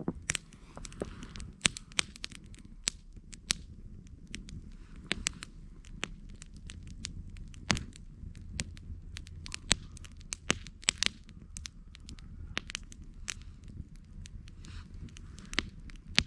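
Wood campfire crackling, with irregular sharp pops several times a second and a few louder snaps, over a low steady rumble of the flames.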